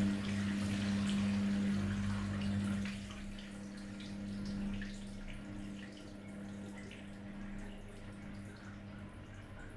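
Running and dripping water over a steady low electric hum, such as a washing machine's pump or valve makes. The hum fades out near the end.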